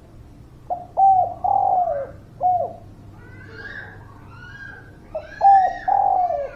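Spotted dove cooing: two phrases, each a short note, a coo, a longer drawn-out coo and a closing coo, about four seconds apart. Fainter higher chirps from another bird sound between and under the phrases.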